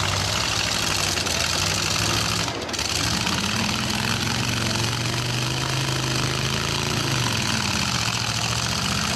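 Demolition derby truck engines running hard. One engine revs up about three seconds in, holds, then eases off near the end.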